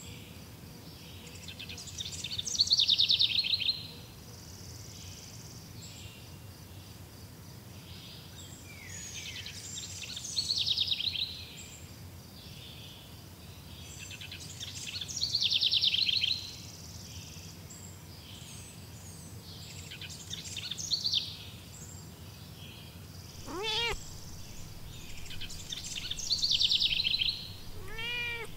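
A songbird sings a short, high phrase about every six seconds, the loudest sound here, over a steady outdoor background hum. Near the end a cat meows twice.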